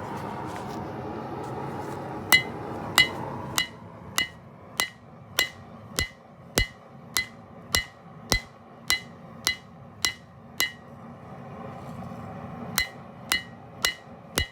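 Hand hammer striking a hot knife blade on an anvil, each blow with a short metallic ring: about fifteen blows at a steady pace of nearly two a second, a short pause, then four more. A steady rushing noise runs under the first few seconds.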